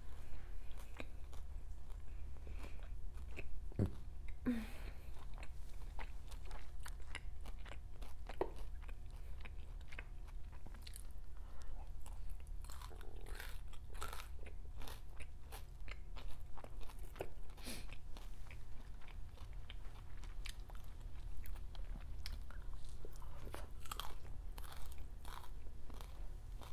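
Close-miked chewing of a mouthful of steak and hash browns: irregular soft crunches and wet mouth clicks. A steady low hum runs underneath.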